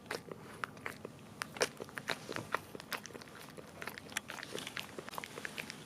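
Cavalier King Charles Spaniel licking almond butter off a plastic bag, a run of quick, irregular wet licks and mouth smacks, several a second.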